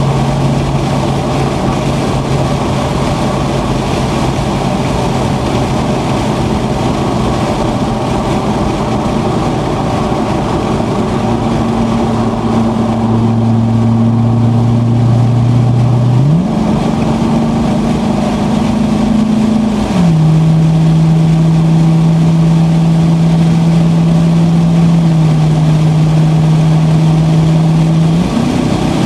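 Corvette V8 engine heard from inside the cabin, running steadily at speed with road and wind noise. Its pitch jumps up about halfway through, drops back a few seconds later as it gets louder, and rises again near the end.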